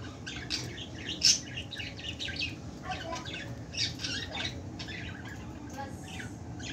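Many small cage birds chirping in quick, short, high calls, with one louder squawk about a second in.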